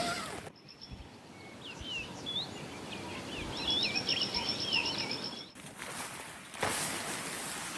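A small songbird singing: a varied run of chirping notes, then a fast, high, repeated trill. Near the end this gives way to a steady rushing hiss.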